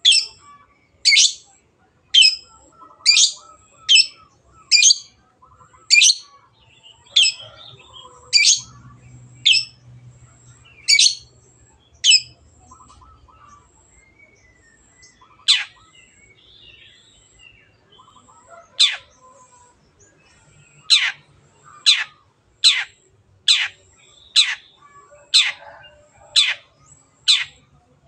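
Long-tailed shrike (cendet) calling in a fast series of short, sharp notes, each a quick falling sweep, about one a second. The series breaks off about halfway through, leaving only two lone calls, then starts again near the end.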